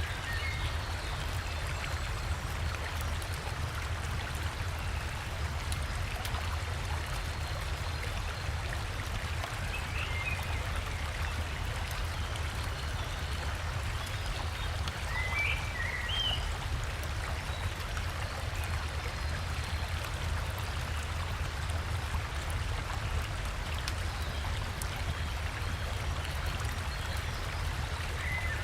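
Steady rush of flowing river water, with a few short bird chirps now and then.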